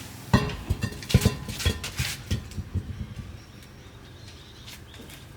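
A quick run of sharp metallic knocks and clinks as tools or metal parts are handled, dying away after about two and a half seconds.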